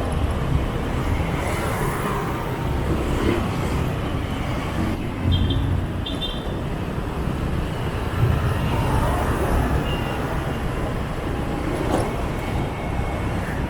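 City traffic heard from a motorbike riding through Saigon streets: a steady rumble of engines and tyre noise with scooters passing close, and two short high beeps about halfway through.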